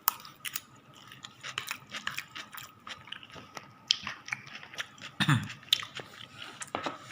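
A person chewing and biting a fresh sweet potato leaf salad, with many small, irregular, moist crunches and clicks. A short voiced sound comes about five seconds in.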